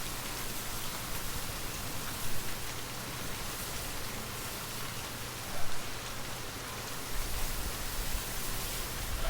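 Steady rainfall: an even hiss of drops with a brief louder swell about five and a half seconds in. A low rumble builds near the end.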